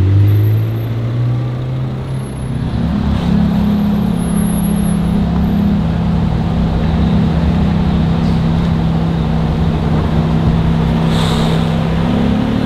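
McLaren 720S's twin-turbo V8 pulling away slowly at low revs, then from about two seconds in a sports car engine idling with a steady, even hum that steps up slightly near the end.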